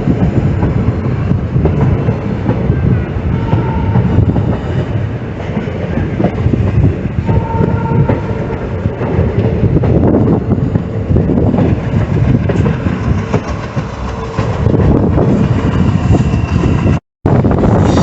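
Passenger train running on the rails, with the loud rumble and clickety-clack of its wheels over the track, and brief high tones twice in the first half. The sound cuts out for a moment near the end.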